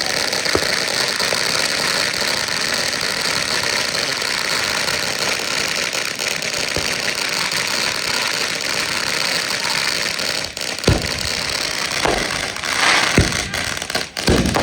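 Fountain firework spraying sparks with a steady loud hiss. Several sharp pops come in its last few seconds.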